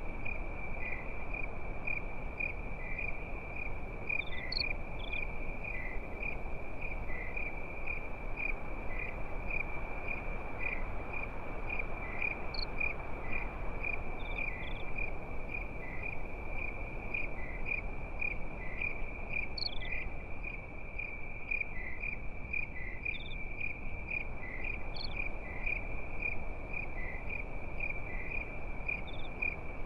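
Crickets chirping in a steady, even high-pitched trill over a soft, constant background hiss.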